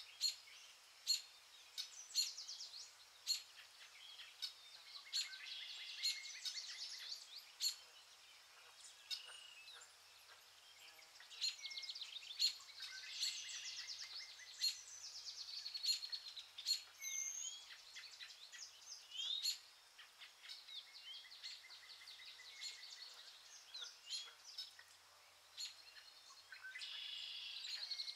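Small songbirds chirping and trilling, with many quick calls overlapping in busy spells and sparser stretches between.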